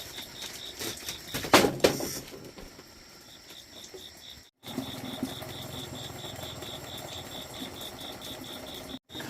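Crickets chirping in a steady high pulse, about five chirps a second. Two or three loud knocks sound in the first two seconds.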